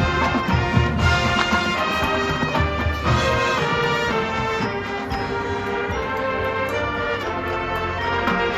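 Marching band playing: brass sustaining full chords over low-pitched accompaniment, the level easing slightly in the middle and swelling again near the end.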